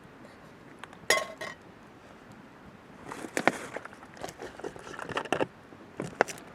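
Camp cookware being handled: a clink with a short metallic ring about a second in, then a run of small knocks and rattles, and two clicks near the end.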